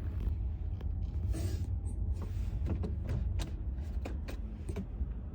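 Automatic tunnel car wash at work: a steady low rumble with a string of irregular knocks and taps, and a short burst of hiss about a second and a half in.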